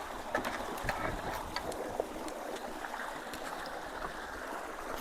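Creek water rushing steadily at a low-water bridge, running over and around a clogged culvert instead of through it, with scattered small clicks and knocks.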